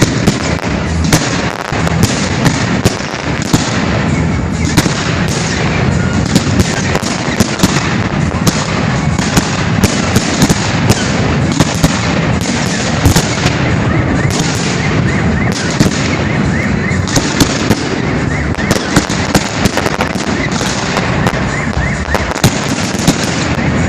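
Professional fireworks display: a dense, continuous barrage of aerial shell bursts, many loud bangs a second overlapping with no pause.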